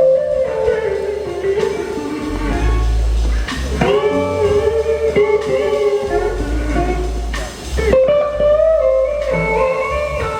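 Live blues band led by an electric slide guitar playing a slow lead line of gliding, bending notes over bass.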